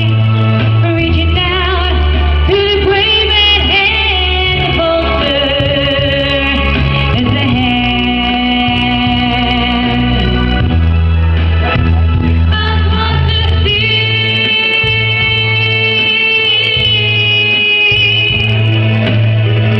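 A woman singing with instrumental accompaniment over held bass notes.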